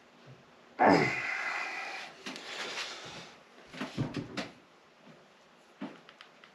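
Metal scraping and clattering from hand tools working on the motorcycle engine's bolts: a sudden scrape about a second in that fades over two seconds, a second rougher scrape, then a few quick knocks around four seconds.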